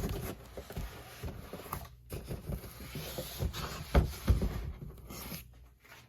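Large cardboard boxes being turned around by hand: cardboard scraping and rubbing, with a string of knocks, the loudest two about four seconds in.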